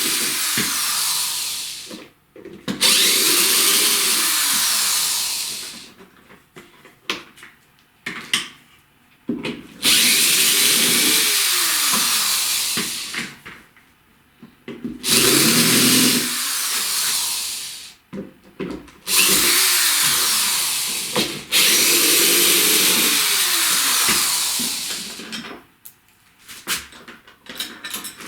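Power drill running in about six bursts of one to four seconds, its speed rising and falling within each run, with short clicks and knocks of handling between the bursts.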